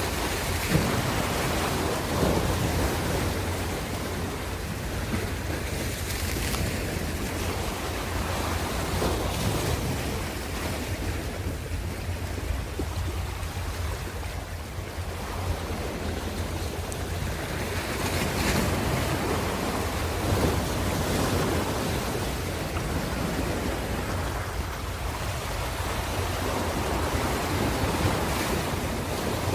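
Ocean surf: waves breaking and washing in, with a steady low rumble underneath. The level swells and ebbs slowly, louder near the start and again about two-thirds through.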